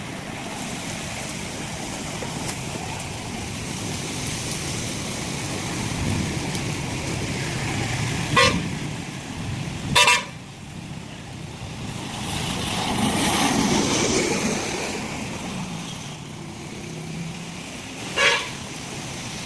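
Street traffic in heavy rain: a steady hiss of rain and wet road, with three short vehicle horn toots and a swell of noise from a passing vehicle midway.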